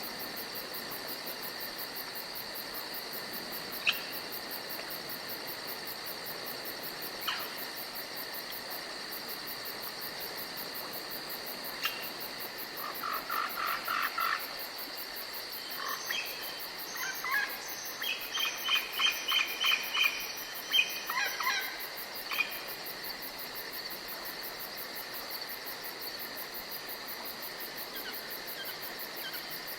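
Forest ambience: insects chirring steadily in a high, even drone, with scattered bird calls on top. A few single sharp chirps come every few seconds, then from around the middle a run of quick repeated notes goes on for several seconds before it fades back to the insects alone.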